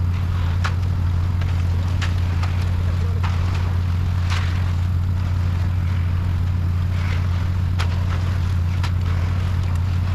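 Concrete mixer truck's diesel engine running at a steady, low drone, with scattered short scrapes and clicks over it.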